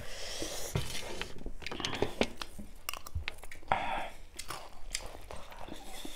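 Chewing and crunching of dry chicken chatpate, a spicy puffed-rice snack, with irregular crisp crunches close to the microphone.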